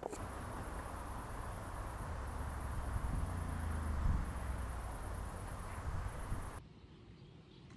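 Steady high-pitched insect chirring over a low rumble. It cuts off abruptly near the end, leaving a much quieter background.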